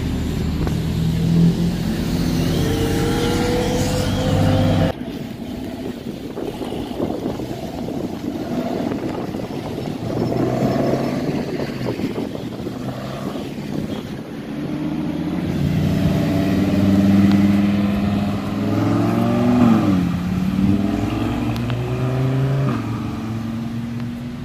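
Car engines accelerating away, their pitch climbing as they pull off. The sound cuts abruptly about five seconds in, and then more engines rev and rise and fall in pitch as cars drive off.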